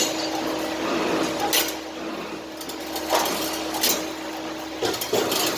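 2D CNC wire-bending machine running: a steady motor hum that breaks off briefly a few times, with sharp metallic knocks as the wire is fed and bent, several in quick succession near the end.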